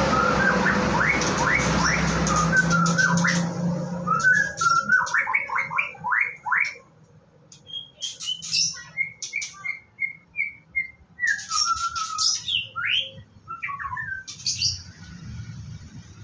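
White-rumped shama singing: quick rising whistled notes in bursts, a run of short even notes and scratchy chatter between them. A steady rushing noise with a low hum runs under the first notes and stops about three and a half seconds in.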